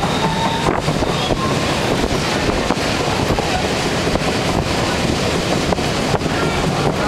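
Whistler Mountaineer passenger train running at speed: a steady rumble and rush of wind from the moving train, with faint wheel clicks and a few brief wheel squeals about a second in.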